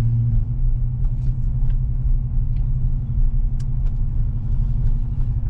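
Steady low rumble of a vehicle heard from inside the cab: engine and road noise, with a few faint ticks.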